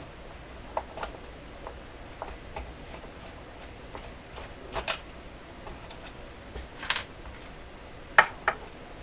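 Small clicks and taps at irregular intervals from hand work on a long screw in a transistor radio's cabinet, with a few sharper clicks about five, seven and eight seconds in.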